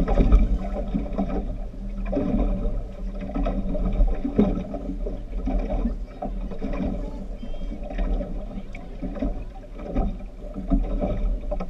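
Speedboat engine running steadily, with frequent irregular knocks and jolts over it.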